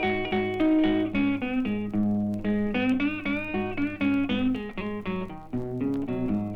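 Solo blues guitar: quick picked treble notes, some bent, over a steady repeated bass note.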